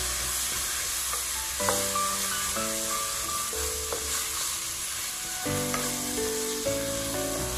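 Onion-and-spice masala with chopped tomato sizzling in a non-stick frying pan while a wooden spatula stirs and scrapes through it. Background music with held chords that change every second or two plays underneath.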